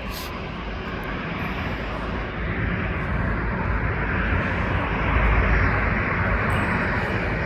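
Jet airliner engine noise: a steady rushing sound that grows gradually louder, with a deep rumble building in the second half.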